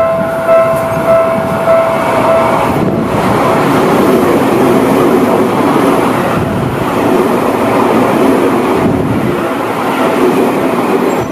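A level-crossing warning bell rings about twice a second and stops about three seconds in. A Seibu 6000 series electric train then passes close by, its wheels and running gear making a steady, loud rush over the rails.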